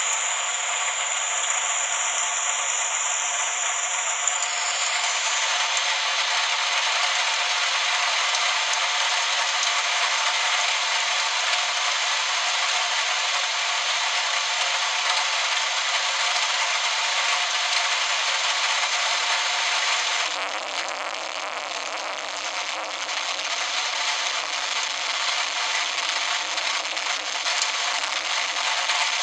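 Heavy downpour during a thunderstorm: a dense, steady hiss of rain. It eases slightly for a few seconds about two-thirds of the way through, then picks up again.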